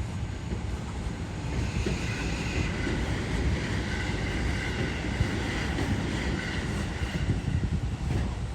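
Electric train running on the tracks: a steady low rumble, with a high whine that comes in about two seconds in and fades out near the end.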